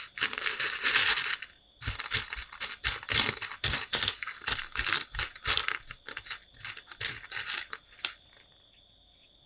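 Loose LEGO bricks clattering: a quick, irregular run of small plastic clicks and rustles, stopping about eight seconds in.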